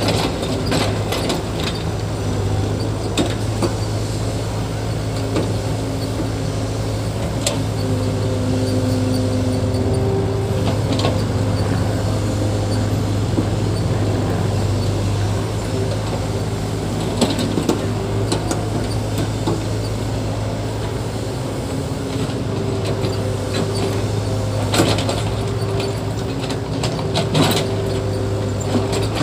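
Machinery running with a steady low motor drone, short whines rising and falling now and then, and scattered clicks and clanks.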